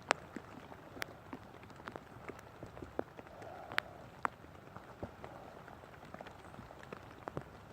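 Rain falling, with many irregular sharp drops tapping close by.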